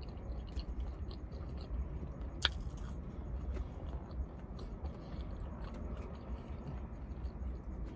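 Mouth-close chewing of a fried chicken sandwich, with many small wet mouth clicks and one sharper click about two and a half seconds in, over a steady low hum.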